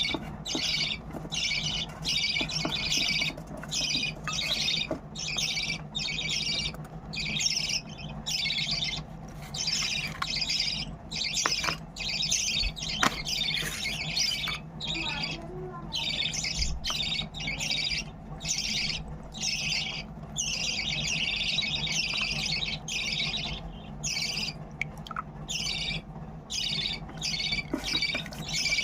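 Budgerigar chicks giving raspy food-begging calls over and over, about one to two a second with short gaps, as they wait to be hand-fed.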